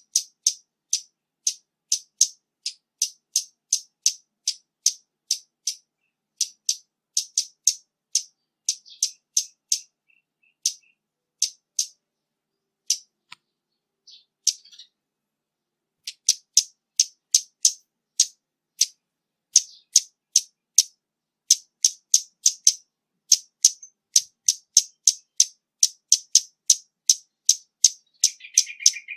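Scarlet-backed flowerpecker giving a long series of sharp, high ticking call notes, about two a second, with a pause of a few seconds about halfway through. It is a noise-reduced recording, with nothing heard beneath the calls.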